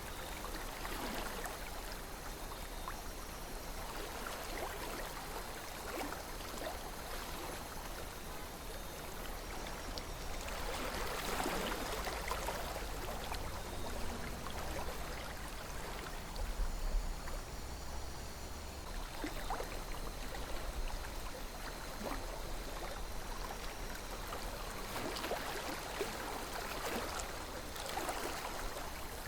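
River water flowing and gurgling steadily, with small splashes and swells of louder rushing now and then.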